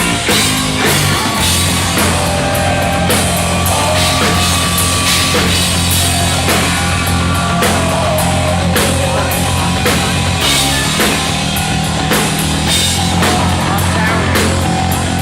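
Live hard rock band playing loud: lead electric guitar bending and wavering over held bass notes and a steady drum kit beat.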